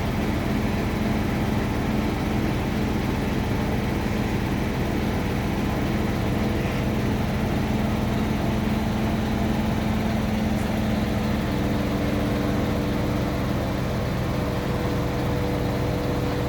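A large engine idling steadily at a constant low pitch, with a second, higher steady hum joining about two-thirds of the way through.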